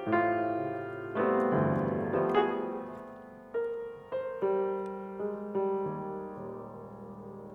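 Solo piano playing: chords and single notes struck one after another, each left to ring and fade, a new one coming every half second to a second.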